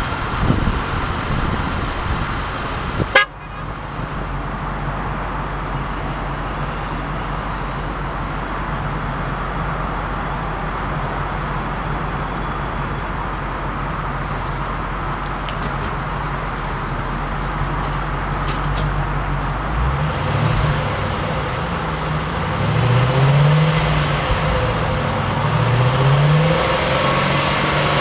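2004 Ford Thunderbird's 3.9-litre V8 running at a steady speed, with one sharp click about three seconds in. From about twenty seconds in, the engine speed rises and falls several times.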